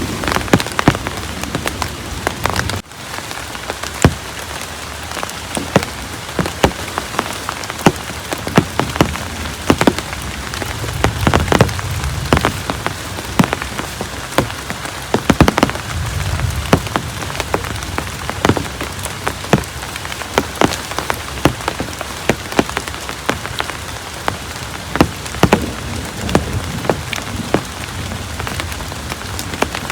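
Heavy rain falling steadily, with many sharp, irregular drop impacts on a nearby surface.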